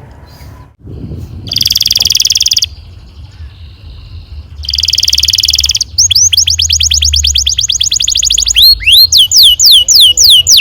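Domestic canary singing: two fast, high rolling trills, then a run of quick repeated chirps and, near the end, a series of rapid sweeping down-slurred notes.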